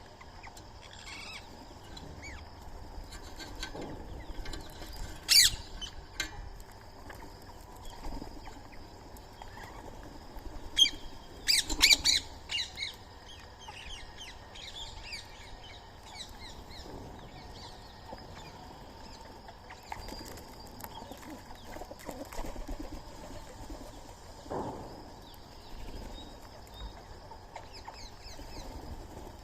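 Birds calling at a feeding spot: fainter short chirps throughout, one loud sharp call about five seconds in, and a burst of loud, harsh calls around twelve seconds in.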